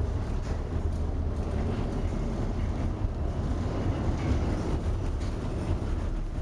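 Steady low rumble under an even rushing noise, from a tanker at sea in a storm.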